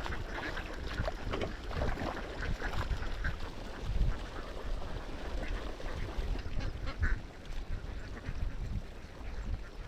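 A large flock of domestic ducks quacking, many short calls overlapping, busiest in the first few seconds and thinning out later, over a steady low rumble.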